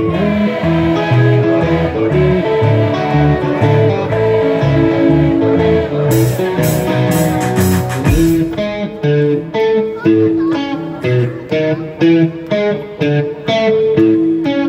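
Live rock band playing an instrumental passage, led by electric guitar over bass and drums. About eight seconds in it shifts to short, choppy accented chords in a steady rhythm.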